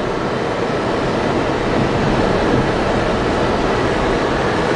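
Steady rush of wind and road noise inside a car driving through a blizzard with a side window open.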